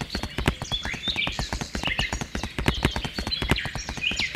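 Hooves clip-clopping in a quick, even walking rhythm, a hoofbeat sound effect laid over a toy cow being walked, with birds chirping over it.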